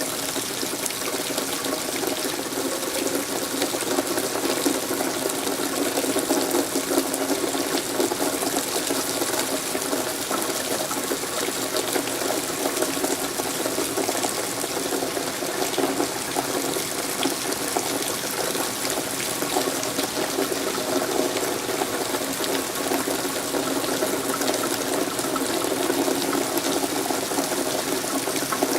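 Steady rain falling, a constant dense hiss of drops with no let-up.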